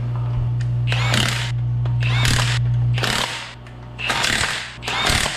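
Power tool run in five short bursts about a second apart, over a steady low hum that fades out a little past halfway.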